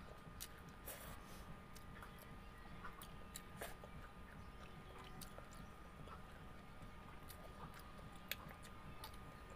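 Close-miked chewing: a person eating rice and pork Bicol Express with her fingers, making irregular soft clicks and lip smacks over a faint steady hum.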